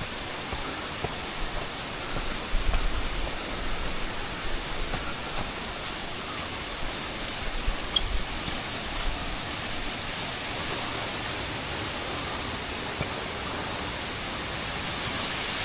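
Steady rushing of a waterfall, with a few low bumps in the first half and growing slightly louder near the end.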